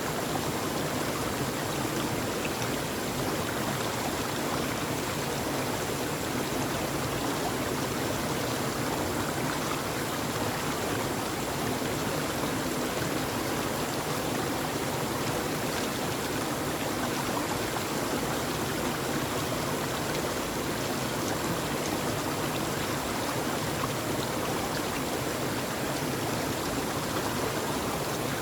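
Running water in a steady, even rush with no breaks or changes.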